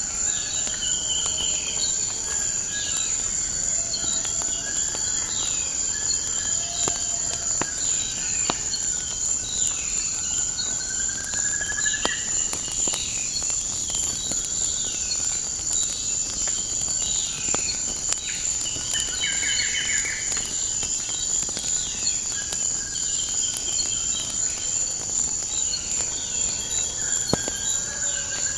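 Nature ambience: a steady, high-pitched insect drone with many birds calling over it, mostly short downward-sliding notes plus a couple of rising trills. Occasional sharp crackles of a wood fire pop through.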